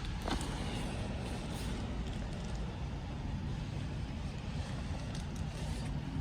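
Steady low rumble with an even hiss over it, like background traffic or machinery noise, and a faint click just after the start.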